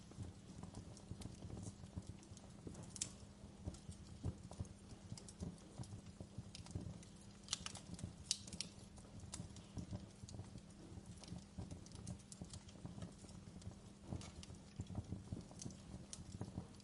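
Wood fire burning in a fireplace, crackling with faint irregular ticks and a few sharper pops, over a low steady rumble.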